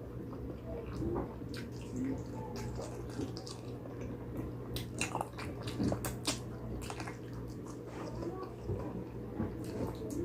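Close-miked eating of spicy pig trotters: irregular wet smacks, clicks and chewing as the skin and gelatin are bitten and sucked, over a steady low hum.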